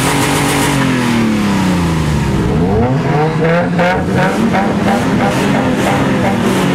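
Car engine revving: a loud, close engine note that sinks slowly, then swells up and down several times in slow revs.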